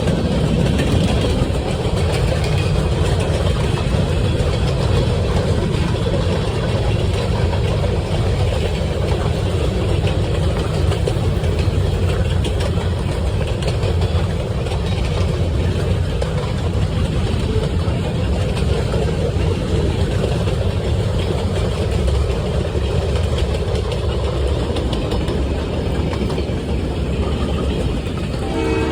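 Steady low rumble of vehicles in motion, with a continuous rushing road-and-wind noise and no distinct events.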